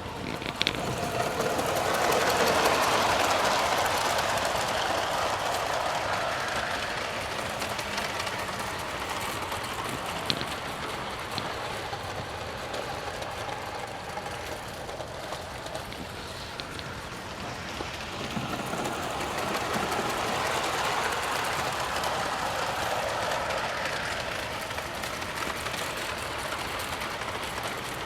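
A Bachmann G-gauge model of an East Broad Top locomotive running on outdoor track: motor and gear whirr with wheel clatter on the rails. It grows louder twice, about two seconds in and again near twenty seconds, as the train passes close by.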